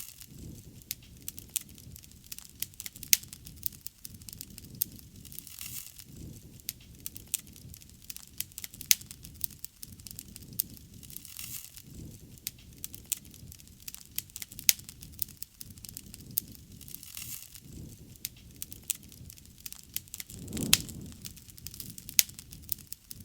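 Wood bonfire burning, crackling with frequent, irregular sharp pops over a low rush of flame. About twenty seconds in, a brief louder whoosh rises and falls away.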